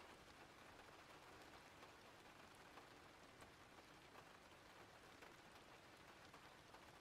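Faint, steady rain falling, an even hiss with scattered tiny drop ticks.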